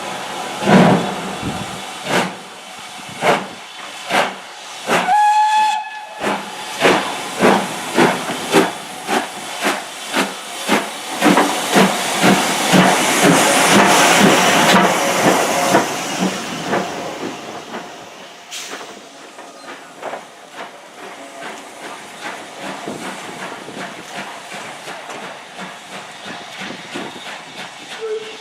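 Steam locomotive pulling away: its exhaust chuffs start slow and spaced, quicken to about two a second, then run together into a hiss that fades as it draws off. A short blast on its whistle comes about five seconds in.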